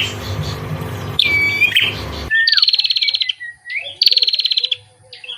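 Songbird calls from two spliced recordings. First a looping whistled call over a steady low hum. Then, after about two seconds, a clean recording of two buzzy, rapidly pulsed trills about a second apart.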